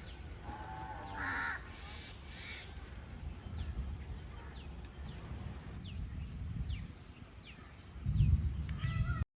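Crows cawing a few times, with other birds giving short falling chirps over a steady low rumble. A louder low thump comes about 8 seconds in, and then the sound cuts off suddenly.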